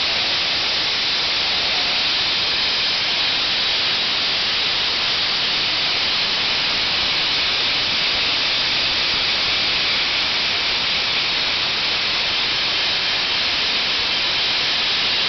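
Soda blaster nozzle giving a steady, unbroken high hiss as compressed air drives baking-soda media out in a continuous blast.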